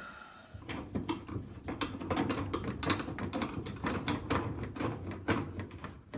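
Rapid, irregular metallic clicks and taps from screws being driven into the sheet-metal cabinet of a GE dryer during reassembly.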